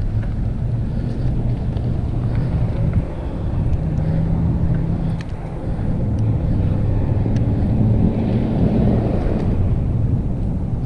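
Low, steady wind rumble on a GoPro action camera's microphone while mountain biking, with a few faint clicks.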